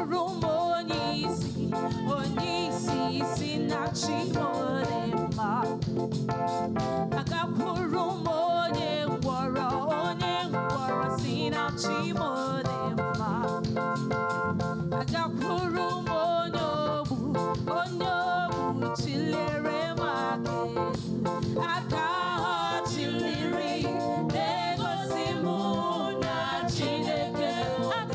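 Live gospel praise music: voices singing a song over a band with keyboard and a steady rhythm of percussion.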